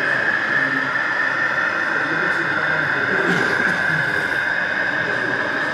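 An OO gauge model train running on the layout, its small motor giving a steady high whine, over the chatter of a crowded exhibition hall.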